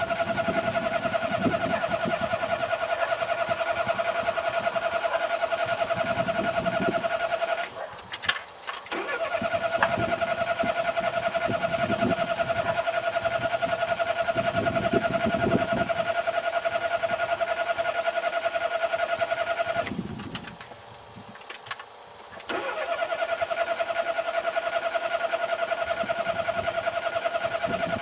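Car starter motor cranking an engine that will not fire, with the accelerator pedal being pumped. A fast, even, pulsing whine runs in three long cranking attempts, with a short pause about 8 seconds in and another of about two seconds near 20 seconds, and the engine never catches.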